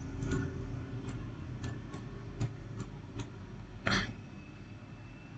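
A handful of light, irregular clicks over a low steady background hum, the loudest about four seconds in.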